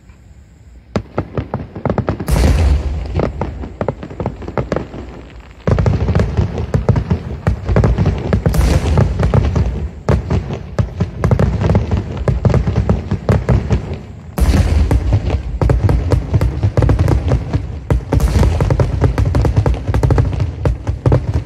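Aerial fireworks shells bursting in rapid succession: a dense barrage of deep booms and crackling. It grows sharply heavier about six seconds in and again about fourteen seconds in.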